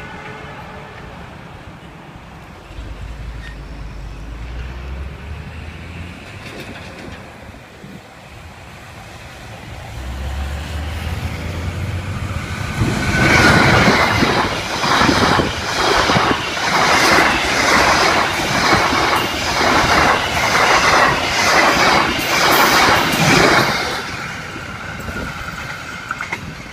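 Passenger train passing close by on ballasted track. A low rumble builds as it approaches, then about halfway through comes the loud clatter of the coaches' wheels over the rail joints, a regular beat of roughly one a second. The clatter fades near the end as the last coach moves away.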